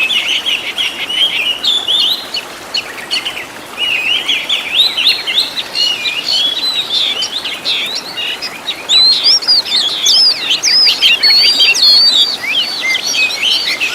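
Oriental magpie-robin song: a continuous run of rapid, varied chirps, whistles and trills packed with mimicked phrases of other birds. It dips briefly about three seconds in and grows louder past the middle.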